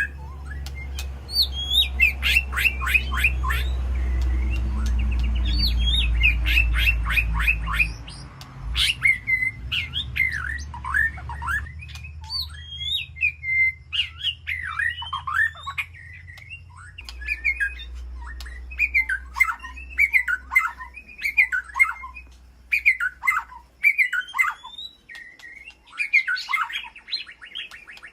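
White-rumped shama singing: fast runs of rapidly repeated sharp notes in the first several seconds, then a string of varied whistled phrases. A low rumble runs underneath, loudest for the first eight seconds and fading out about halfway through.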